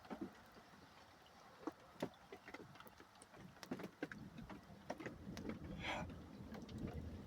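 Distant thunder: a low rumble that builds from about halfway through and keeps going, over scattered light ticks.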